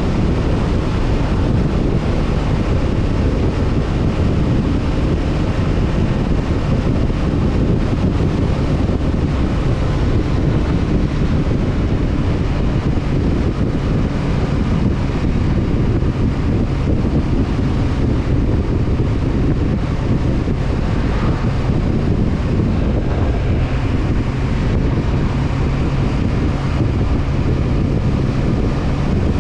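Honda CB500F parallel-twin engine running steadily at cruising speed, half buried under heavy wind noise rushing over the camera microphone.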